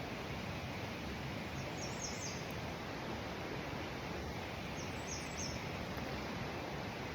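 A bird calling in two short bursts of three or four quick high-pitched notes, about three seconds apart, over a steady background hiss.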